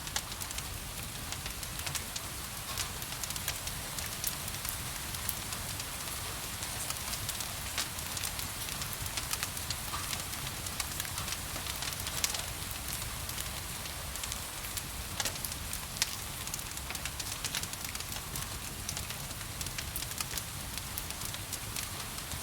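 Wood fire crackling, with frequent short sharp pops, over a steady hiss of gentle rain and a low rumble.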